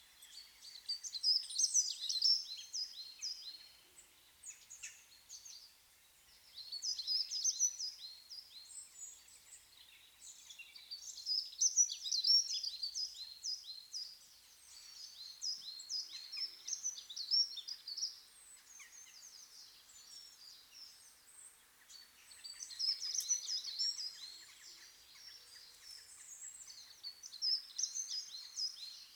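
Songbird singing: short songs of rapid high chirps, each lasting two to three seconds, repeated every few seconds with brief pauses between.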